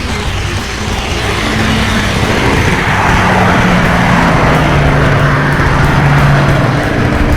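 Train running: a steady rushing rumble with a low hum that shifts slightly in pitch, swelling over the first few seconds and then holding.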